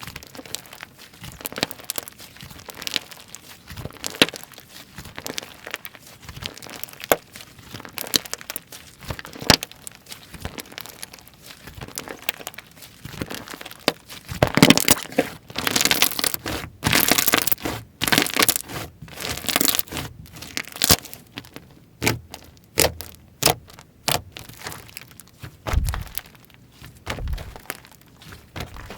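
Hands playing with slime: sticky crackling, tearing and popping clicks as it is stretched, pressed and folded. The sounds grow louder and denser about halfway through.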